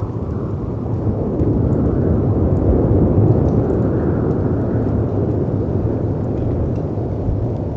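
Layered storm ambience: a deep rumbling wash of wind and surf that swells about halfway through and eases off again, with faint, sparse crackles from a wood fire.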